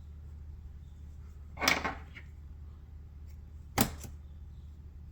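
Two brief handling sounds at a fly-tying bench: a short scrape about a second and a half in, then a sharp click near four seconds with a fainter one right after, over a steady low hum.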